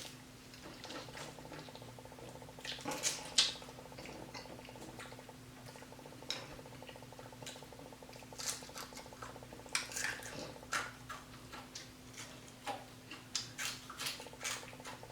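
Close-miked eating: scattered wet chewing and mouth clicks, busier in the second half, with a few light clinks of dishes or cutlery.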